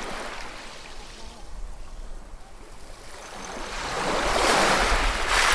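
Ocean waves washing onto a shore: a small surge at the start, then a bigger wave builds from about three seconds in and breaks loudest near the end.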